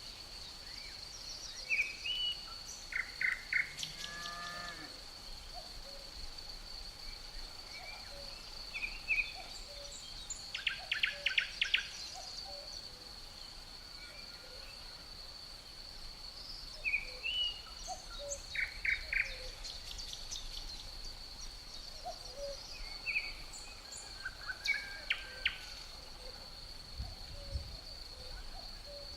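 Nature ambience: a steady high-pitched insect drone, with birds chirping and trilling in short clusters over it, and a couple of low thuds near the end.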